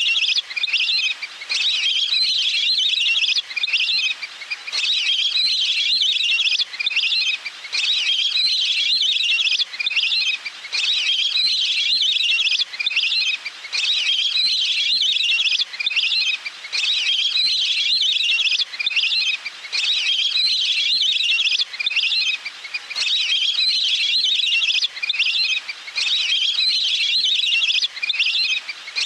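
Recorded duck calls played as a lure: high, rapid chattering calls in phrases of about two seconds, each broken off by a short pause and repeating evenly like a loop.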